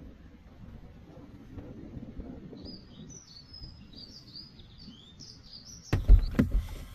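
A small songbird twittering in a quick run of short, high chirps over a low rumble of wind. Near the end come several loud knocks and thumps.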